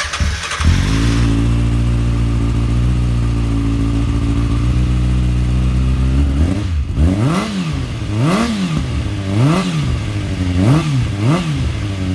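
2013 Kawasaki ZX6R 636's inline-four engine breathing through a Yoshimura carbon exhaust, started with a brief crank, catching at once and idling steadily. After about six seconds the throttle is blipped five times, the revs rising and falling back to idle each time.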